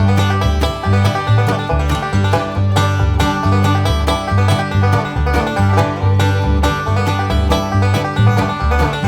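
Live band playing an up-tempo country-rock tune: twangy plucked strings over a bass line that steps between notes and a steady drum beat.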